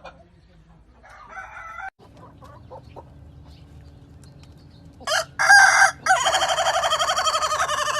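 Rooster crowing: two short loud notes about five seconds in, then a long drawn-out final note held for over two seconds. A brief, softer call comes about a second in.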